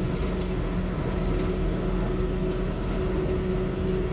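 Cab-end interior running noise of a Yurikamome rubber-tyred automated guideway train cruising at speed: a steady rumble with a steady motor whine held at one pitch.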